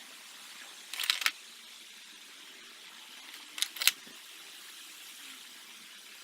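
Two short bursts of clinking and rattling, about a second in and again near the middle, over a steady hiss: hand tools or metal parts being handled during reassembly of the intake.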